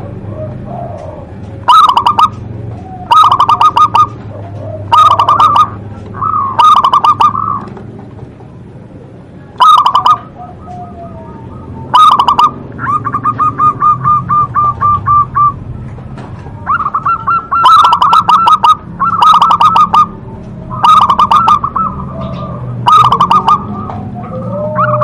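Zebra dove (perkutut) singing: loud cooing phrases repeated every second or two, with a longer rapid trill about halfway through.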